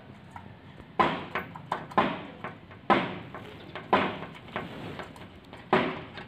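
A bird knocking against a window pane coated in solar reflective film: sharp knocks about once a second, with lighter taps between them.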